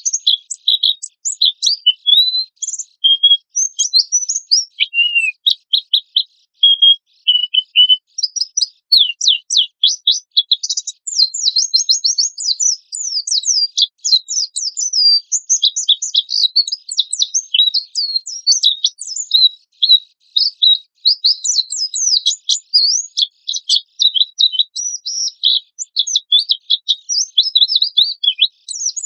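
White-eye (pleci) singing a fast, unbroken stream of high-pitched chirps and trills, with rough rapid bursts. This is the energetic 'gacor' song used as a lure recording for caged birds.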